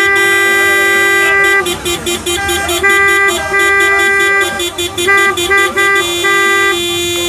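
Car horn sounding in long held blasts at one steady pitch, broken by short gaps: the celebratory honking of a wedding convoy.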